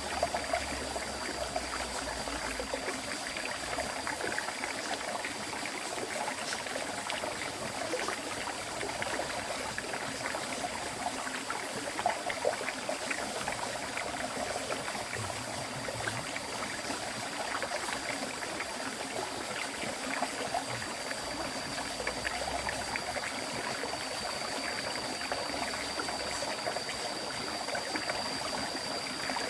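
River water flowing steadily, a continuous bubbling rush with a few brief louder splashes, and a faint steady high tone above it.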